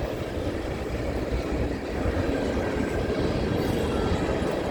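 Freight train cars rolling past at trackside: a steady, low rumble of wheels on rail.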